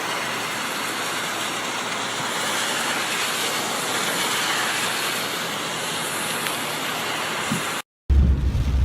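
Steady rain falling, an even hiss with no let-up. About eight seconds in it cuts off abruptly, and after a short gap a louder low rumble begins.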